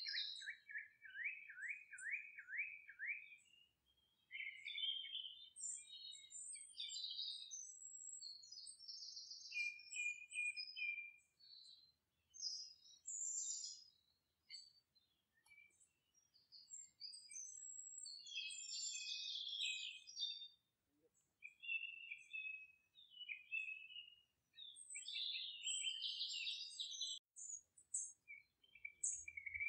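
Birds chirping and singing: a quick series of about eight rising whistles at first, then scattered high chirps and short trills coming and going.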